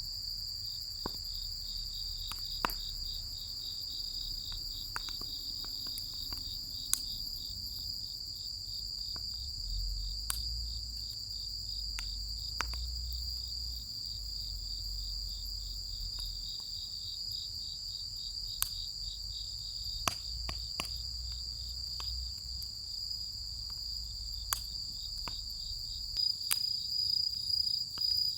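Firewood burning in a large steel fire pit, crackling with sharp, irregular pops, over a steady high chirring of insects.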